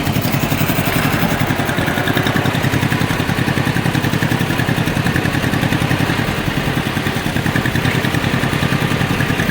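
Tractor engine running at a steady speed while driving along, a fast, even pulse of firing strokes.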